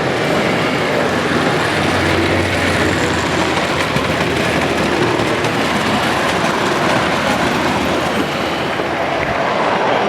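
Model train running along a layout's track, a steady rolling noise with faint rapid ticks.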